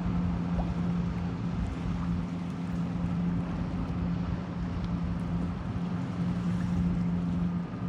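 Ship's engine running with a steady low hum, over wind noise on the microphone.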